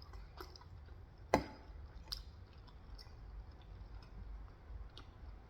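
A person chewing leftover pizza close to the microphone, with small wet mouth clicks and one sharper click or crunch about a second in.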